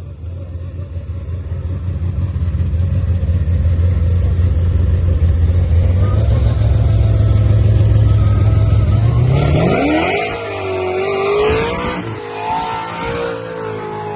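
A car engine running at low revs, growing louder, then revving up sharply about nine and a half seconds in and holding high, uneven revs to the end.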